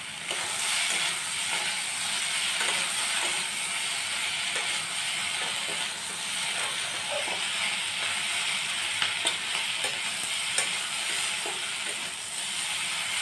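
Pointed gourd (parwal), onion and capsicum sizzling steadily in oil in a metal kadai while being stirred and tossed with a metal spatula, with occasional light clicks of the spatula against the pan.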